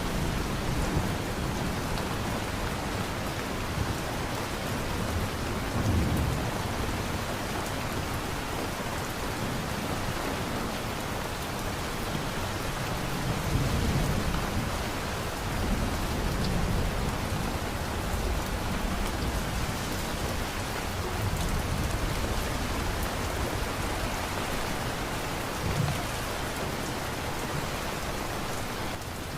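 Steady heavy rain with low rolls of thunder rumbling several times, the strongest about six seconds in, around fourteen seconds and near the end.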